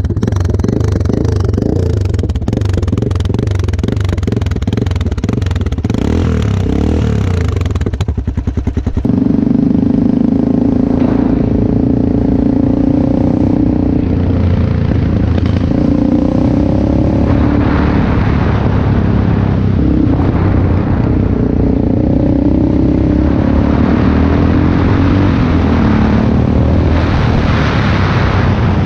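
Yamaha XT660R's 660 cc single-cylinder engine running through its rebuilt stock mufflers. About nine seconds in the note turns louder and steadier, and its pitch then rises and falls.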